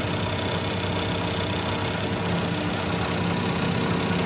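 A motor-driven machine running steadily with a constant hum; one low tone in the hum grows stronger about two seconds in.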